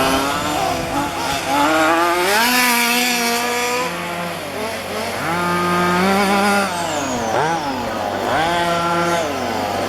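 Small two-stroke petrol engines of 1:5 scale RC cars revving up and easing off again and again, the pitch rising and falling every second or two.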